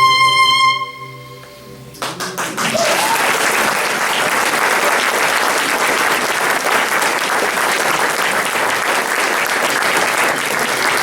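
A held instrumental note ends under a second in and dies away, and about two seconds in a large audience breaks into steady applause that carries on.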